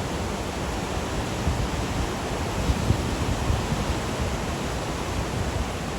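Van driving on a dirt road: a steady rumble of tire and road noise with irregular low bumps.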